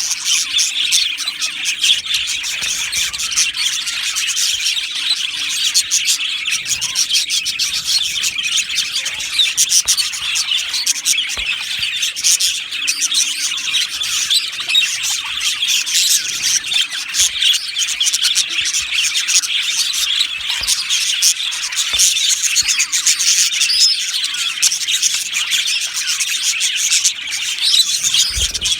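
A flock of budgerigars chattering and chirping all at once in a dense, unbroken warble of many overlapping high calls.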